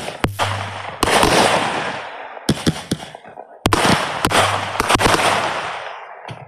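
Fireworks display: a run of sharp bangs from bursting shells, each trailing off into a fading echo. There is a loud cluster of bangs about halfway through.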